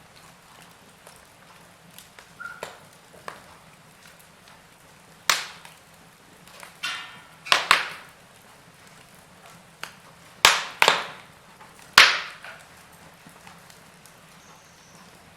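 Wood logs burning in a fireplace, crackling with sharp, irregular pops over a faint steady hiss. The loudest pops come a few seconds apart, the strongest about twelve seconds in.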